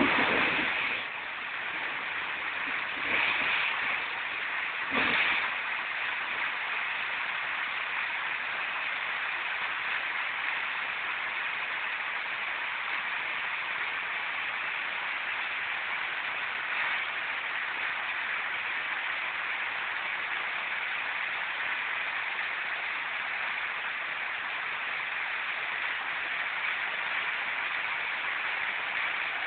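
Heavy rain falling steadily on a concrete patio and plant leaves, a continuous even hiss, with a few brief louder swells in the first five seconds.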